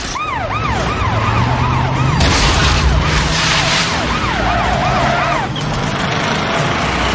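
Police siren yelping in quick rising-and-falling sweeps over a car engine running hard. The siren stops about five and a half seconds in, and the engine carries on.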